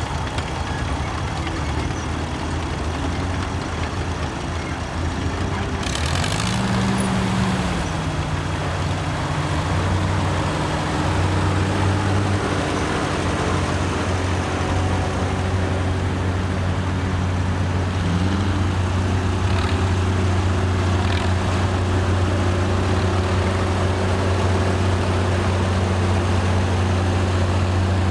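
Antique tractor engines running as tractors pass in procession, the engine note rising about six seconds in and again about eighteen seconds in. A brief hiss about six seconds in.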